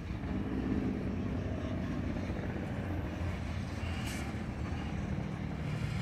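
Low, steady rumble of a freight train of hopper cars being shoved slowly through the yard by an EMD SD40-2 diesel locomotive. A brief high-pitched noise comes about four seconds in.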